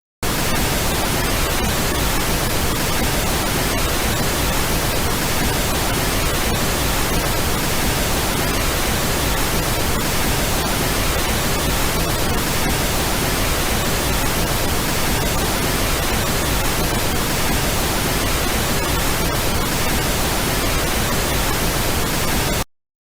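Steady, fairly loud white-noise static with no tone or voice in it, cutting off abruptly near the end.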